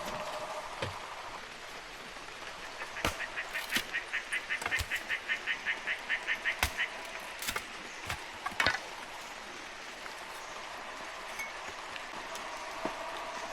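Steady heavy rain on foliage and a tarp roof. Through the middle comes a rapid run of high chattering notes, about six a second for some four seconds, with a few sharp knocks scattered through.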